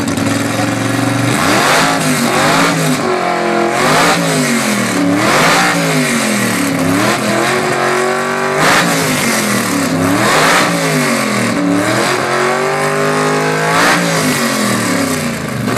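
Blown small-block V8 of a 1955 Gasser with an 8-71 supercharger, idling for about a second and then revved hard again and again. Each rev rises and falls in pitch, about eight of them in a row.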